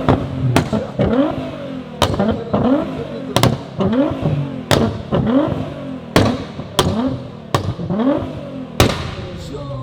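A tuned sports car's engine being blipped over and over, each blip a short rising rev, about one and a half a second. Loud, sharp exhaust pops and bangs go off between the revs.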